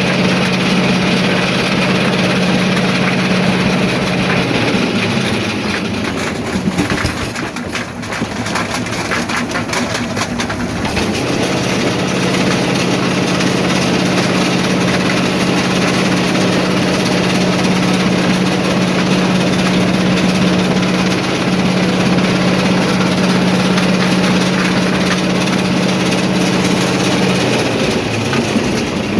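Primary jaw crusher running in a rock quarry: a loud, steady machine drone. For a few seconds near the middle the drone gives way to a stretch of rattling and knocking, then it returns.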